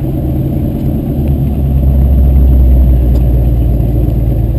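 A large engine idling with a steady deep rumble, swelling slightly about two seconds in.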